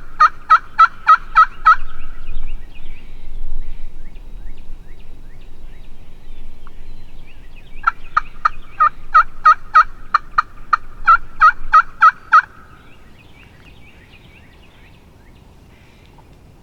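Loud turkey yelping in two runs of evenly spaced notes, about four a second. The first run ends about two seconds in; the second, longer run goes from about eight to twelve seconds.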